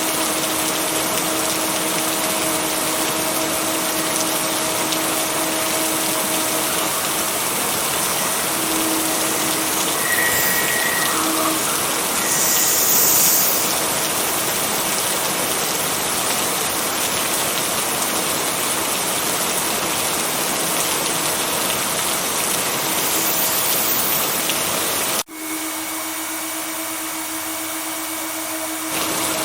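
Steady heavy rain, a dense even hiss, with a faint steady hum beneath it. About 25 seconds in the sound cuts abruptly to a thinner, quieter rain for a few seconds, then the full rain comes back just before the end.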